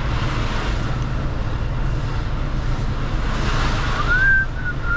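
Mercedes-Benz Actros truck's diesel engine running low and steady as the truck creeps along. Near the end a thin high tone rises briefly and then holds.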